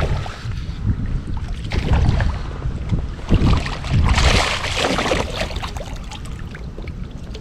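Wind buffeting the microphone in a steady low rumble, with a burst of water splashing about four seconds in as a hooked bass is brought to the kayak.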